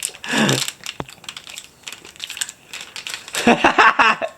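Light clicking and crinkling, as of plastic sushi containers being handled, between two brief bits of voice near the start and about three and a half seconds in.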